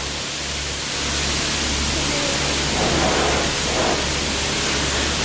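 Steady rushing noise of a car wash, an even hiss with a low hum underneath.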